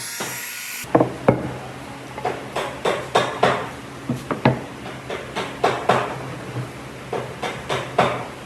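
Repeated irregular knocks of a hammer tapping on wood, about two a second, starting just under a second in over a steady low hum.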